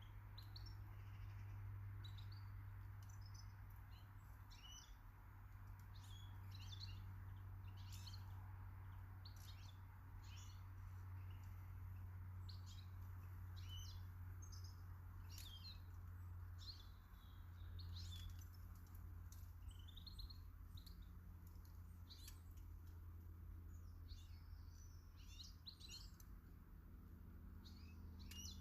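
Small garden birds chirping and calling faintly, many short high chirps in quick succession, over a low steady hum.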